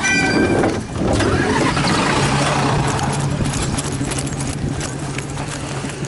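Diesel railcar running, a steady engine hum under a wash of noise, with scattered light clicks.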